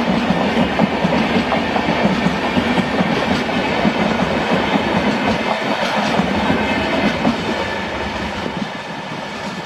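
Passenger train coaches rolling past, their wheels clattering over the rail joints in a steady rush of noise that eases off a little near the end.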